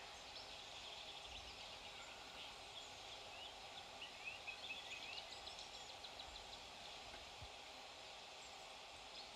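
Faint birdsong over a quiet outdoor background: scattered short high chirps and falling notes, with a quick run of rapid notes about four to five seconds in.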